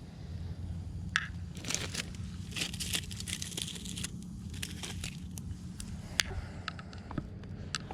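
Campfire crackling and popping, with dry sticks and logs being picked up and thrown onto the fire, giving scattered sharp snaps and rustles.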